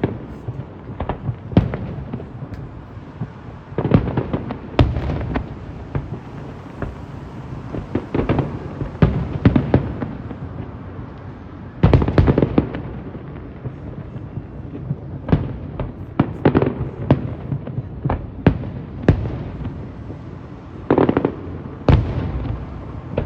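Fireworks going off: an irregular string of sharp bangs and crackling pops, sometimes several in quick succession, some with a low rumbling tail. The loudest burst comes about twelve seconds in.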